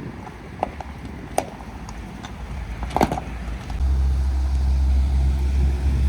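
2011 Ford F-150 XL pickup: a few sharp clicks and a knock, then its engine comes in with a steady low hum just under four seconds in and runs evenly.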